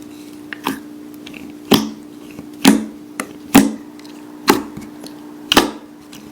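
Slime being pressed and worked by hand, giving six sharp pops or snaps about once a second over a steady low hum.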